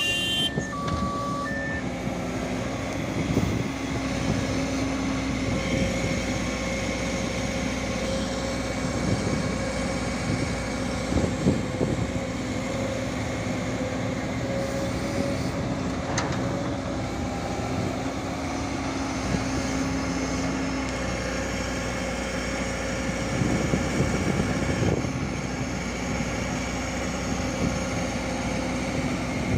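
Komatsu PC205-10M0 hydraulic excavator's diesel engine running steadily under working load, with a hum that swells now and then as the hydraulics work while it loads a tipper truck.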